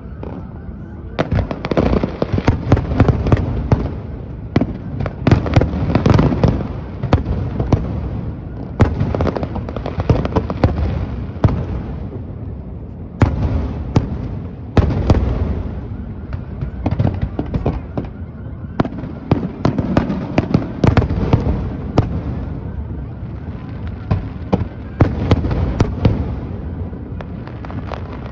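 Aerial fireworks display: shells bursting in quick, overlapping volleys of bangs with crackling between them, in waves a few seconds long with brief lulls.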